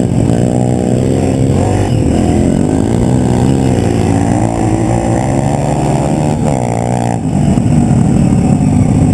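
Pit bike engine revving, its pitch rising and falling repeatedly as the throttle is worked, then running at a steadier pitch for the last couple of seconds.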